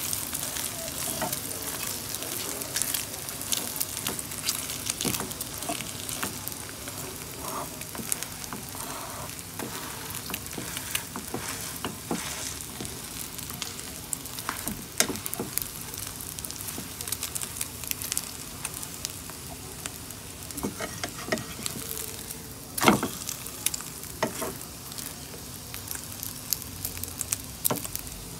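Paratha and egg sizzling in oil in a frying pan, with scattered crackles and clicks as a fork presses on it. There is one louder sharp knock about three-quarters of the way through.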